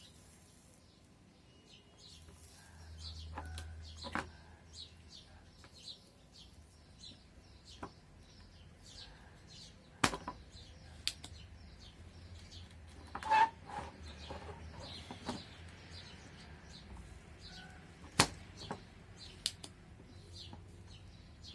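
Birds chirping in quick repeated short calls throughout. A few sharp clicks cut across them, the loudest about halfway and near the end.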